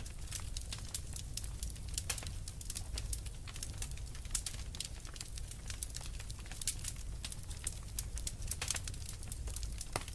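Wood fire in a fireplace crackling steadily: a dense run of irregular sharp pops and snaps over a low, steady rumble of the flames.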